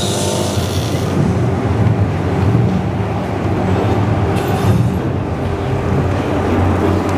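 Tram running: a steady low engine drone with road noise.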